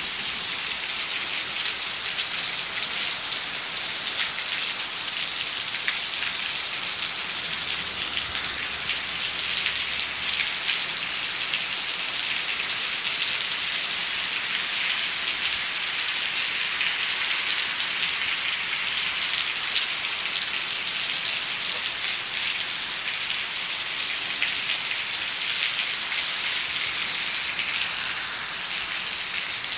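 Hard rain pouring steadily onto wet pavement, a dense, even hiss that does not let up.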